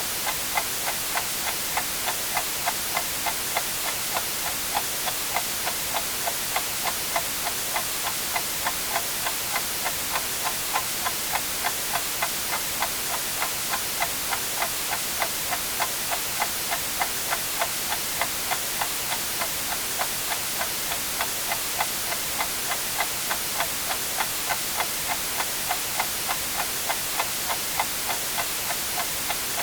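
A clock ticking steadily, about two ticks a second, over a constant white-noise hiss.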